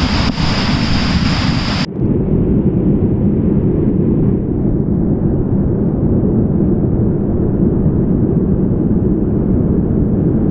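Steady rumbling rush of a river in full spate, floodwater pouring past, with wind buffeting the microphone. Just under two seconds in the sound changes abruptly, losing its high hiss and a steady high whine and becoming duller and lower.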